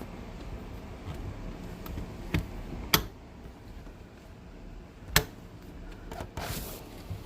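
Three sharp clicks or taps, the loudest about three and five seconds in, over a steady low background.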